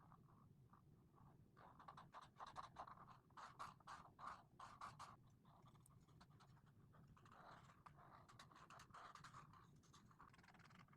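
Faint scratching of Ohuhu alcohol marker tips on coloring-book paper: quick short back-and-forth strokes, about four a second, from about two seconds in, then longer, steadier strokes in the second half.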